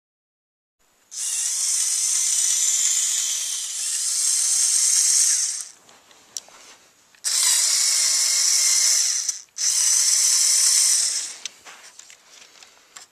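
Small electric motors and plastic gears of a remote-controlled Lego Technic trial truck whirring as it drives, in three runs: one of about four and a half seconds, then two of about two seconds each with short pauses between.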